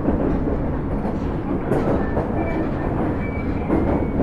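Osaka Metro 30000 series subway car (Hitachi SiC-VVVF) running, heard from on board: a steady rumble of wheels on rail with light rail clicks. Faint thin high tones come and go in the middle.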